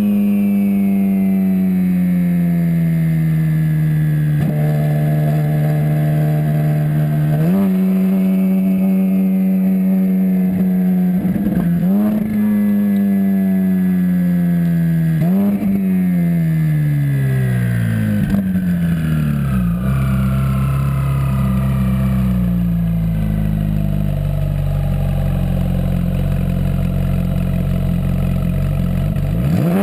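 Twin-turbocharged Ferrari 458 Spider V8 running at steady revs, with brief rises in pitch about a third and halfway through. The revs then fall away in steps, hold low and steady, and start climbing again right at the end.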